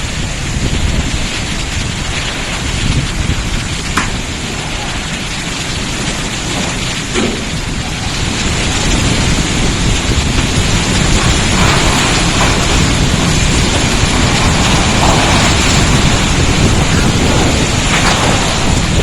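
Heavy downpour and strong wind, a dense steady rush with low rumbling from the wind on the microphone; it grows louder about eight seconds in.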